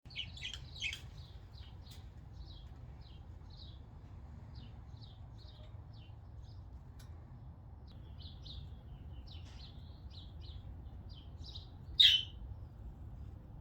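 Pet budgerigars chirping: a run of short, quick high chirps, with one much louder call about twelve seconds in.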